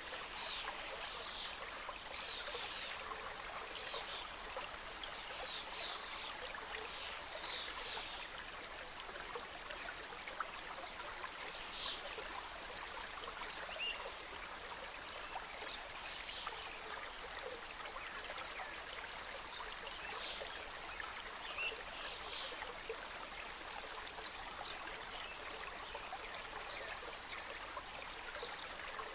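Mountain stream cascading over rocks: a steady rush of water, with frequent brief bright notes over it, thickest in the first several seconds.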